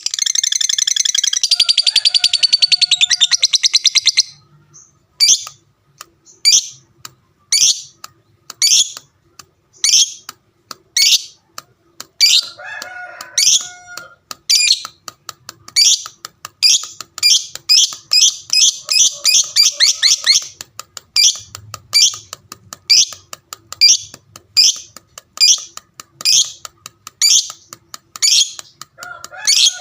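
Lovebird singing: a long, rapid chattering trill (the 'ngekek') for about the first four seconds, then breaking into a series of sharp, shrill chirps roughly one a second, bunching into quicker runs around the middle.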